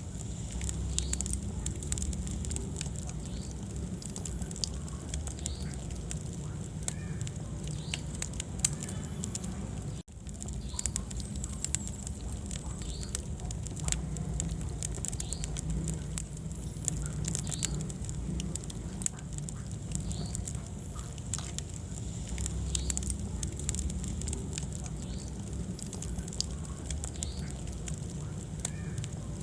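Wood fire burning in a fireplace: a steady low rumble of flames with frequent sharp crackles and pops. The sound drops out for a split second about a third of the way in.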